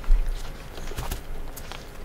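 A man chewing a mouthful of slider, with a low thump right at the start and a few faint clicks about a second in.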